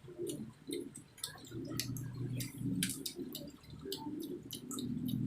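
A person eating: many quick, wet mouth clicks and smacks of chewing, irregularly spaced, over a low steady hum.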